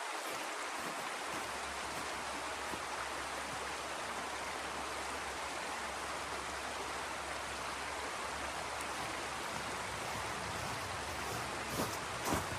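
Steady rushing hiss of blizzard wind, even and unbroken, with a few light clicks near the end.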